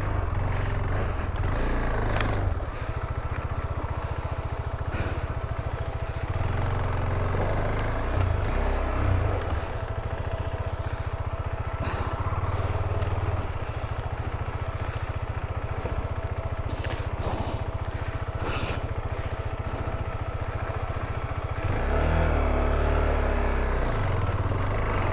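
Motorcycle engine running at low revs as the bike is ridden slowly over a rough dirt trail, with scattered short knocks and scrapes. The engine picks up near the end.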